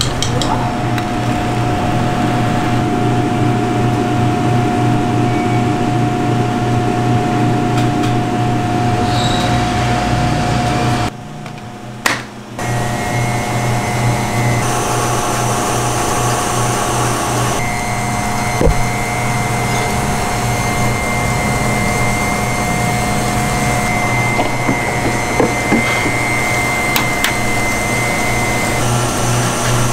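Steady hum of an electric motor with a constant whine over it, broken briefly about eleven seconds in, with a few light clicks.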